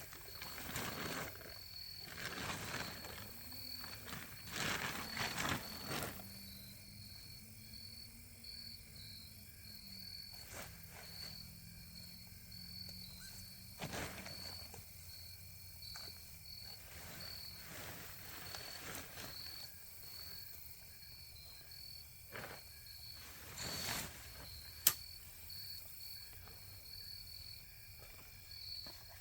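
Insects chirping in a steady, evenly pulsing high trill, with bouts of rustling and a sharp click as the tent's fabric and frame are handled.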